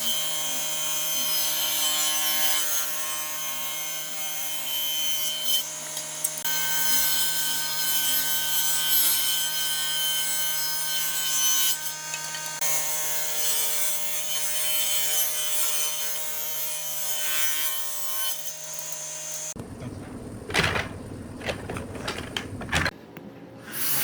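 A power tool working wood, a steady motor whine over a rasping, grinding noise. About three-quarters of the way in it stops abruptly and gives way to a few knocks and rustling.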